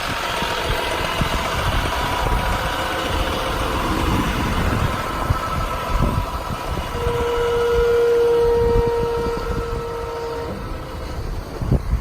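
6.7-liter Cummins turbo diesel idling steadily, with a steady whine that comes in about seven seconds in and stops some three seconds later.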